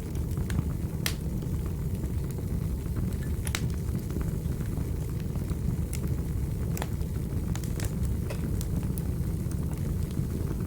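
Fire in a fireplace burning with a steady low rumble, and irregular crackles and sharp pops scattered through it, a few of them louder.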